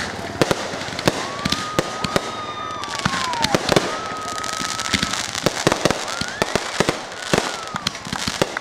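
Aerial fireworks finale: a rapid barrage of bangs and crackles, with several long whistles over it, one held steady for a couple of seconds and then dropping in pitch, others rising or falling.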